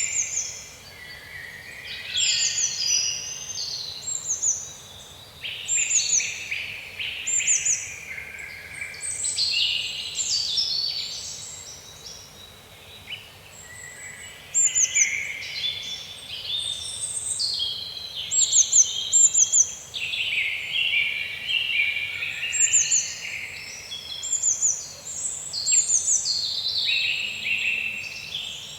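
Songbirds singing in a woodland, many overlapping chirps and high trilled phrases repeating throughout, over a faint steady background hiss.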